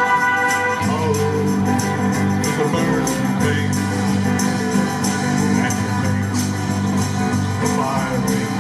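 Live band playing a song, with a steady drum beat over a bass line.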